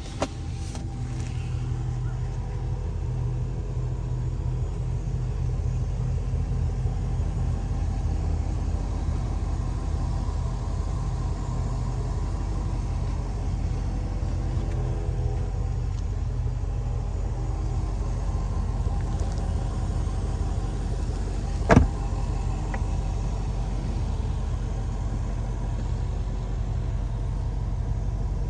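Range Rover Sport P525's 5.0-litre supercharged V8 running with a steady low rumble. A single short, sharp knock about twenty seconds in.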